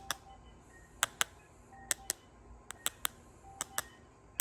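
Mallet from a plastic surgical tool set tapping in sharp, light taps, mostly in quick pairs about once a second.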